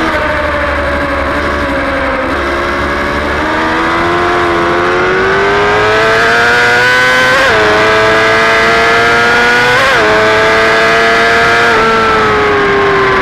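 Superbike engine heard onboard, pulling hard with its pitch climbing, then two quick upshifts about seven and a half and ten seconds in, each a sudden drop in pitch followed by another climb. Near the end the rider eases off and the engine note falls.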